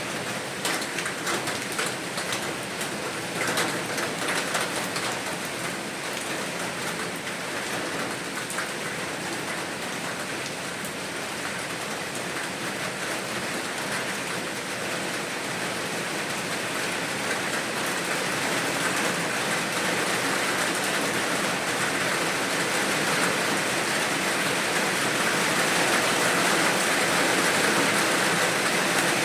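Steady rainfall, with distinct drops ticking in the first few seconds, growing gradually louder and heavier through the second half.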